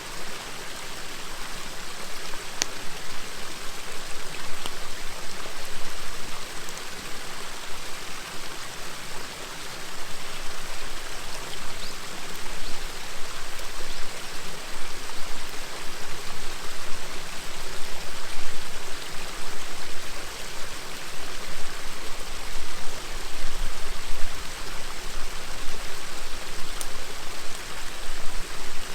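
River water rushing and babbling steadily, with an occasional faint crackle from a wood campfire.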